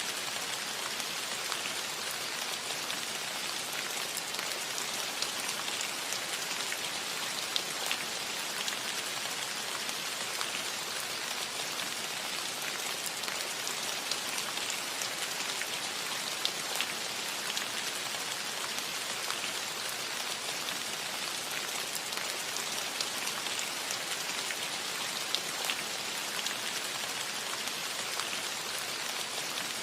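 Gentle rain falling steadily on a metal roof: an even hiss of rainfall with scattered sharp ticks of single drops striking the metal.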